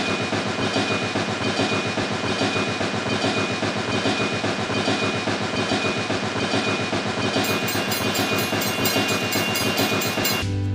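A small machine running with a fast, even mechanical clatter over a thin steady whine; about three-quarters of the way in a faster, sharper ticking joins it.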